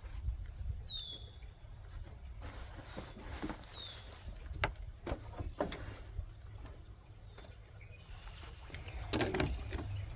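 A bird gives two short calls sliding down in pitch, about three seconds apart, over a low steady rumble, with a few faint knocks in the middle and near the end.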